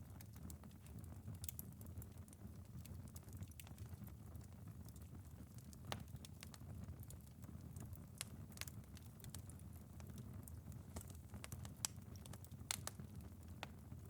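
Wood fire in a fireplace crackling, with irregular sharp pops and snaps over a steady low rush.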